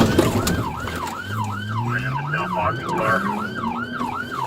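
Police car siren on a fast yelp, wailing up and down about three times a second, with a lower tone gliding upward beneath it partway through.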